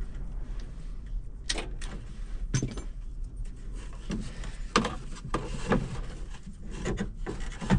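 Scattered light clicks and knocks over a low steady rumble.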